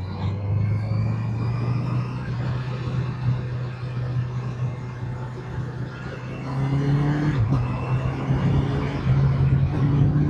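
Motorcycle engine running on the move, its note climbing gradually and dipping once about seven seconds in, over a steady rushing noise.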